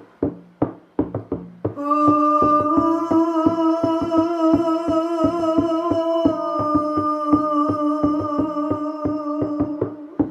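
A hand drum beaten in a fast, steady trance rhythm, about four to five strokes a second. About two seconds in, a long held high vocal tone joins it and sustains over the drumming with a slight waver.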